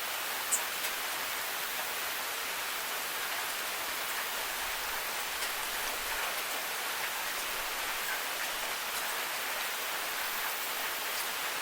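Steady rain falling: an even hiss with scattered sharp drip ticks, one louder tick about half a second in.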